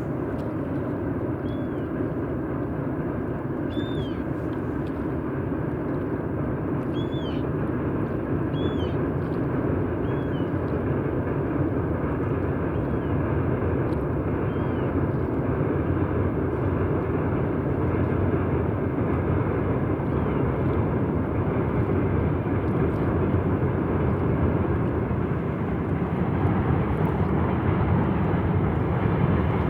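Freight train rolling across a steel bridge: a steady low rumble that slowly grows louder. A few short high chirps sound in the first third.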